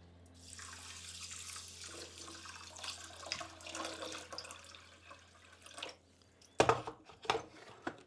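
Kitchen tap running water into a bowl of rice to soak it. About six and a half seconds in, the water stops and a few loud, sharp clattering knocks follow.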